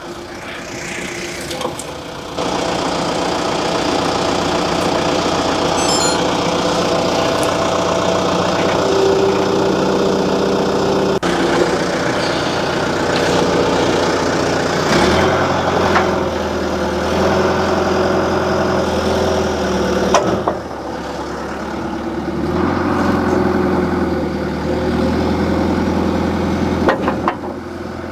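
John Deere 310G backhoe's four-cylinder diesel engine running as the machine is backed up. Its note shifts several times: a deeper, heavier hum sets in about halfway through, breaks off briefly, and falls away near the end.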